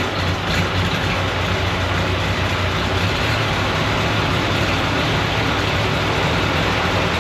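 Ford 8N tractor's four-cylinder engine running steadily just after firing up, on its first run in about three years.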